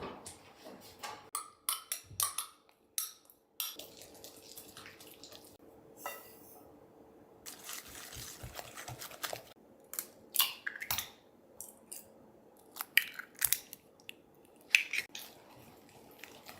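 Kitchen utensils clinking and tapping against bowls and dishes in a string of short, irregular knocks, with a longer soft rustling stretch about halfway through, during cupcake preparation.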